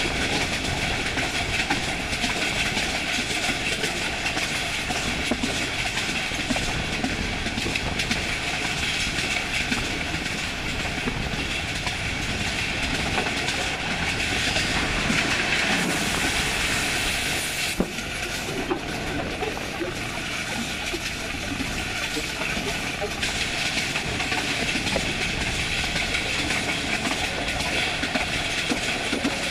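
Passenger train coach running at speed over jointed track: the wheels clatter over the rail joints against a steady rush of wind and running noise, heard from an open coach window or doorway. The noise dips slightly a little past halfway.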